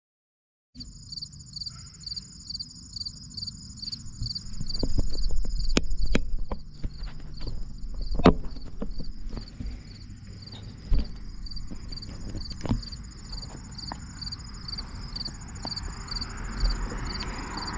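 Summer insects chirping in even pulses about twice a second over a steady higher buzz, starting about a second in. Beneath them runs the low rumble and scattered clicks and knocks of a bicycle being ridden.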